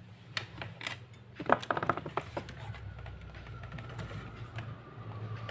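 Small clicks and taps of laptop parts being handled during disassembly, a quick cluster of them between about one and a half and two and a half seconds in, over a steady low hum.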